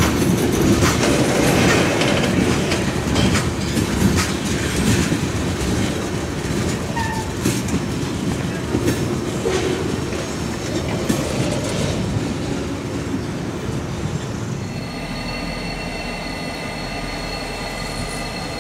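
CSX freight train of tank cars rolling past, the steel wheels clicking over rail joints under a rumble that slowly fades as the cars move off. About fifteen seconds in it gives way to a quieter steady hum with a few high steady tones.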